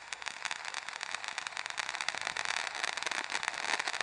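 Fireworks crackling: a dense, fast stream of small pops that grows steadily louder.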